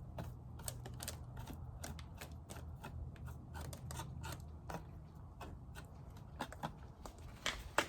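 Irregular light clicks and taps of beehive equipment being handled, a few sharper knocks near the end, over a steady low hum.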